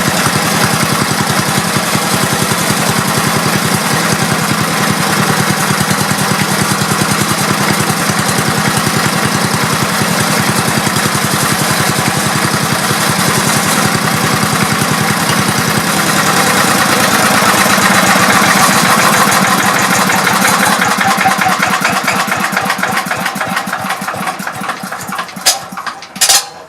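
A Craftsman 5 hp chipper-shredder's small gasoline engine running with steady rapid firing pulses; it is running again because a clogged carburetor bowl screw has been cleared. About two-thirds of the way in it speeds up and gets louder, then it winds down and stops near the end with a few clunks.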